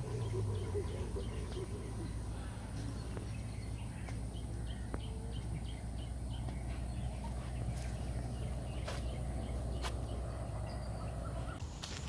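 Outdoor wetland ambience: a steady low rumble, with a bird calling a quick run of short, evenly repeated high notes, about three a second, through the middle.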